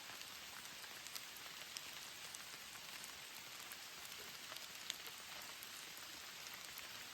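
Steady rain falling, with scattered drops ticking sharply now and then and one louder drop about five seconds in.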